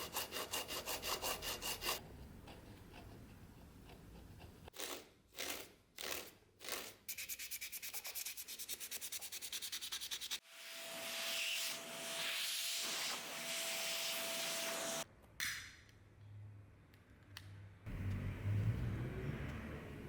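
Hand sanding or scrubbing of a restoration piece: runs of quick back-and-forth rubbing strokes, about eight a second, with a few slower single strokes between them. About ten seconds in comes a steady hiss with a held tone that lasts about four and a half seconds, and a low rumble follows near the end.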